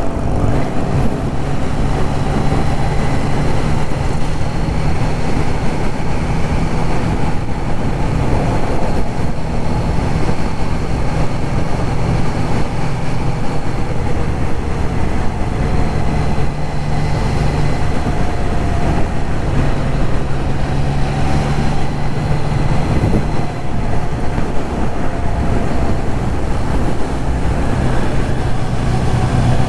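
Triumph Trident 660 inline-three motorcycle engine running under way, its note rising and falling with the throttle, under steady wind and road noise on the microphone.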